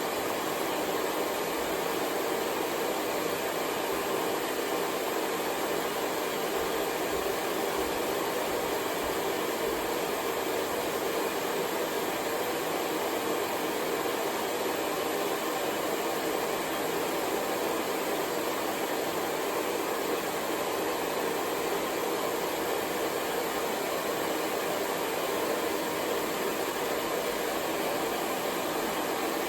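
Hair dryer running continuously at a steady speed, an even, unbroken whooshing hiss of blown air and motor.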